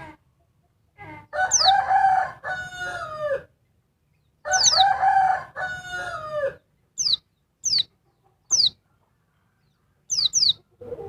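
Female pleci (white-eye) giving short, high, downslurred calls, singly or in quick pairs, several times. Twice, a longer and lower call lasting about two seconds, falling in pitch at its end, is louder than the white-eye's calls.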